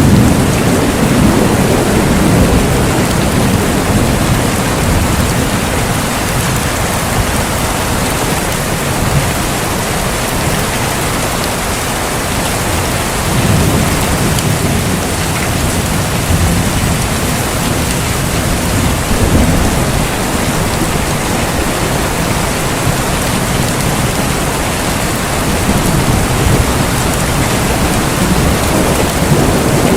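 Steady heavy rain with low rolling thunder that swells and fades several times, strongest in the first few seconds.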